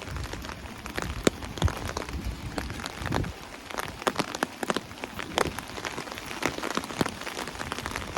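Steady rain falling, an even hiss with many sharp, irregular taps of single drops close by. A low rumble underneath fades out about three seconds in.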